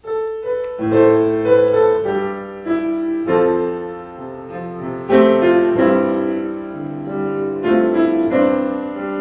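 Piano playing the introduction to a song, sustained chords changing every second or two.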